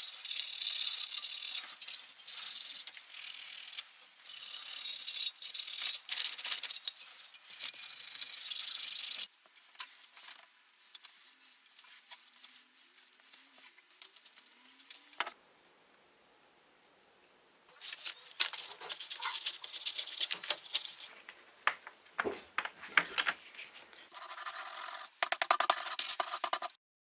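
Rubbing and scraping strokes on the toy truck's steel parts, taking off paint softened by paint stripper, in uneven spells of rasping. There is a short pause just past the middle, and a denser, louder spell near the end stops abruptly.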